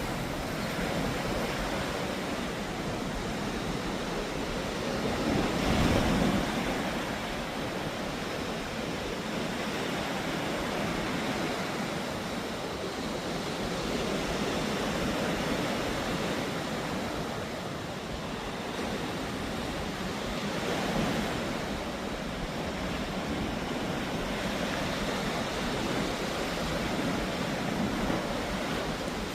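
Ocean surf washing onto the shore: a steady rushing hiss that swells and eases, loudest about six seconds in. Wind buffets the microphone.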